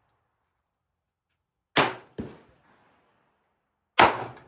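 Handgun shots: one loud shot a little under two seconds in, a fainter shot right after it, and another loud shot near the end, each with a short ringing tail.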